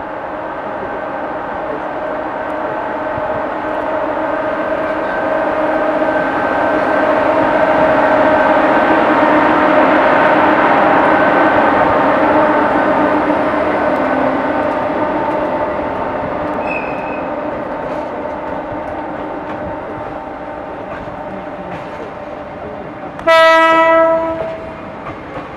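Electric-locomotive-hauled train of old-type passenger coaches pulling out and rolling past, a steady hum of several tones that swells to a peak about ten seconds in and then fades, with wheel clicks near the end. About 23 seconds in, a locomotive horn gives one loud blast of about a second and a half.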